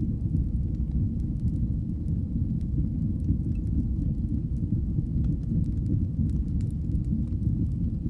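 Wood fire burning in a fireplace: a steady low rumble with many small, scattered crackles and pops.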